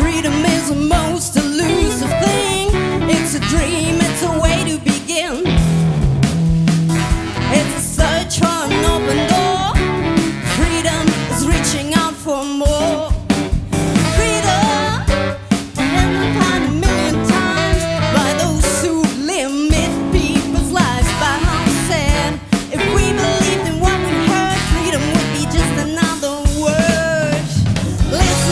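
Jazz-rock band playing: drum kit and bass keeping a steady groove under guitar, with a wavering melody line on top.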